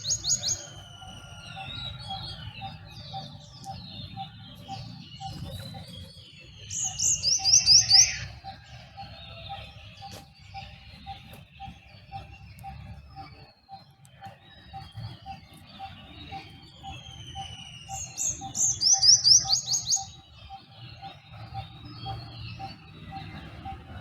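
Dawn bird chorus. A loud, rapid, high trilling song phrase lasting about a second comes twice, about 7 and 19 seconds in, over scattered chirps and whistles. Throughout, one bird repeats a steady low note about three times a second.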